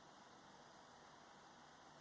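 Near silence: a faint, steady hiss with no change in pitch or level.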